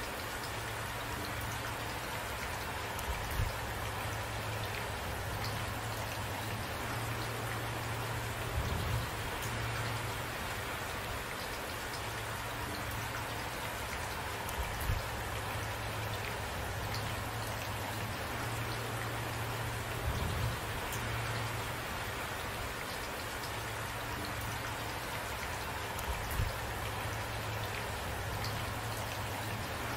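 Steady rain falling, with a short, louder low thud about every five to six seconds.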